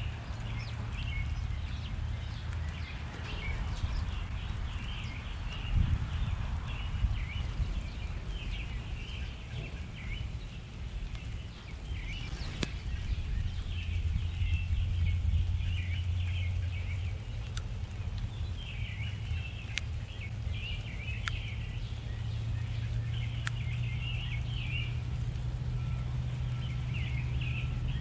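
Small songbirds chirping and twittering almost without a break, over a steady low rumble.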